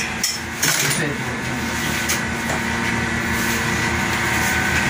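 Barbershop room noise: a steady electric hum with faint voices in the background, and a few light clicks in the first second.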